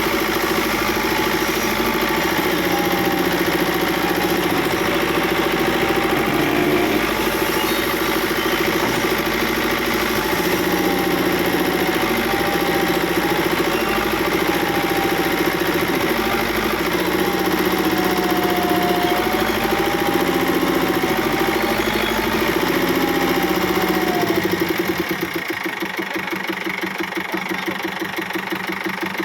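Diesel engine of a JCB or excavator running steadily under load, with a wavering whine over it, then dropping to a quieter, pulsing idle near the end.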